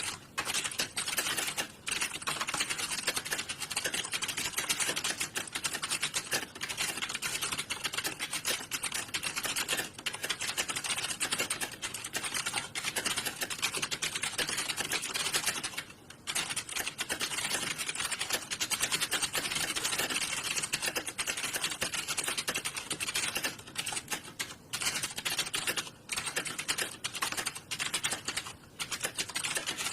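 Computer keyboards being typed on, a dense, continuous clatter of fast keystrokes that sounds like many typists at once during a typing test, dropping briefly a few times.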